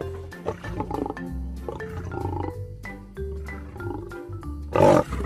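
Lion roaring over light background music, with one short, loud roar near the end.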